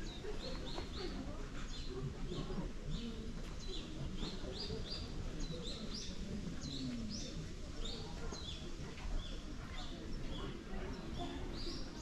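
Small birds chirping continuously: many short, high chirps repeating a few times a second, over a low murmur.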